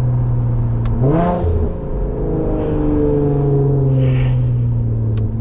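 Infiniti Q50's engine and loud exhaust droning steadily while the car cruises. About a second in, the note rises briefly in pitch, then drops and slowly climbs back.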